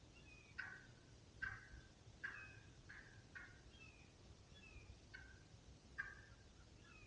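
Faint wild turkey yelping: a series of short calls, roughly one a second, with thin high falling whistles of another bird in between.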